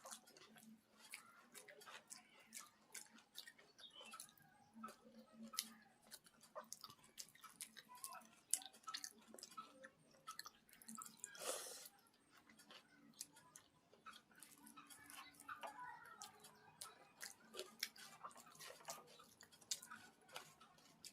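Quiet close-up chewing and mouth sounds of someone eating pakhala (water-soaked rice) with fried vegetables: many soft, wet clicks, with one louder noisy sound about eleven seconds in.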